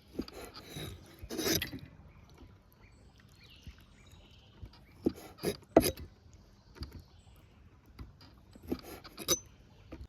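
Food-preparation handling sounds while raw chicken hearts are readied for grilling: a rustle about a second in, then three sharp clicks and knocks around the middle and two more near the end.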